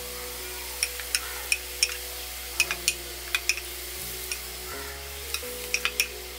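Sliced onions and curry leaves frying in oil in a nonstick pan, with a dozen sharp crackling pops in clusters, as ground masala paste goes in. Soft background music with held notes plays underneath.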